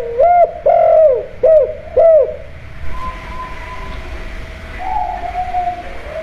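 Spotted dove (tekukur) cooing: four loud, arched, hooting notes in the first two seconds, then softer drawn-out coos.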